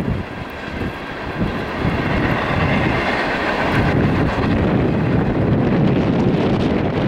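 CSX freight train cars rolling past: a steady rumble of wheels on the rails with light clatter, growing louder about a second and a half in. Wind buffets the microphone.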